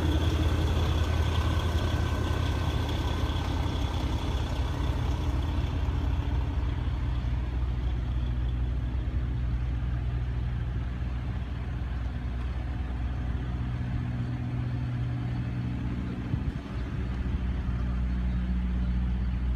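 A vehicle engine running steadily at low revs, a constant low hum. A higher hiss over it fades out about six seconds in.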